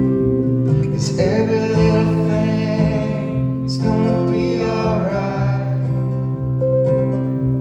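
Live acoustic music: strummed acoustic guitar with a man singing two sung phrases over it.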